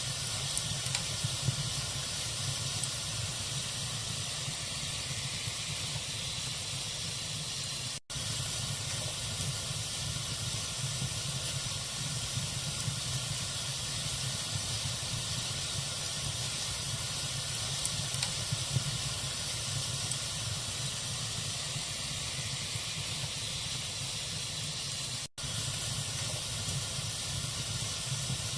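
Wood fire burning in a fireplace: a steady hiss and rustle of the burning logs with a few small crackles and pops. The sound drops out for an instant twice, about 8 seconds in and near the end.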